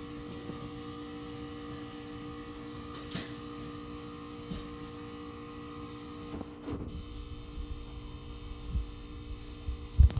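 A steady hum of a few even tones over a low rumble, with a few faint clicks and some low thumps in the second half, the loudest thump near the end. No barking stands out.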